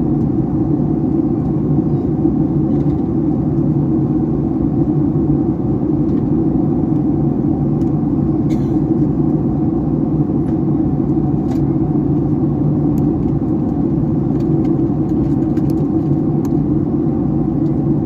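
Steady cabin drone of a Boeing 757-300 in flight, heard from inside the cabin: engine and airflow noise with a low hum, and a few faint clicks.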